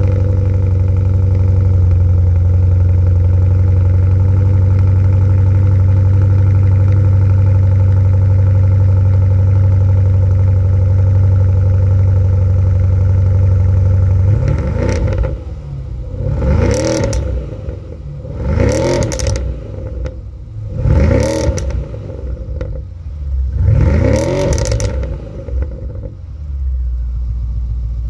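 BMW F10 550i's 4.4-litre twin-turbo V8 through a muffler-delete exhaust, running at its raised cold-start idle, then revved in about five quick throttle blips that rise and fall in pitch before it settles to a lower idle near the end.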